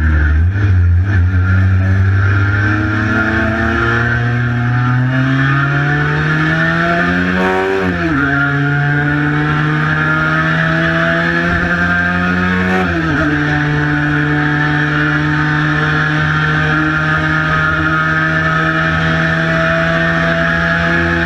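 Cagiva Mito 125 two-stroke single-cylinder engine under acceleration: the pitch climbs steadily, drops sharply at an upshift about 8 seconds in and again about 13 seconds in, then holds nearly steady while creeping slowly upward.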